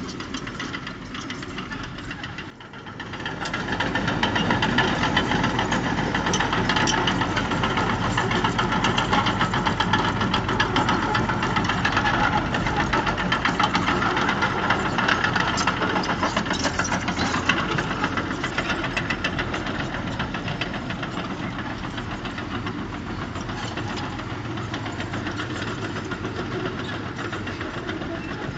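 Heavy diesel engine of earthmoving machinery running hard with a dense, rapid knock. It dips briefly a couple of seconds in, comes back louder, and eases off somewhat in the second half.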